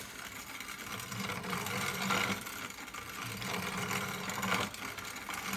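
Hand-cranked steel-plate grain grinder grinding flaxseed into flour, its plates set tight for a fine second pass. The grinding goes on steadily in a rhythm, swelling about once a second.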